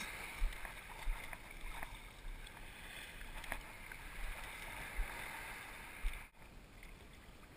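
Water washing against a kayak hull, a steady wash with a few light knocks and low bumps scattered through it; the level drops a little about six seconds in.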